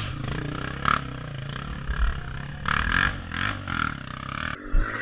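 Dirt-bike engine revving up and down unevenly, with clattering and a few sharp knocks.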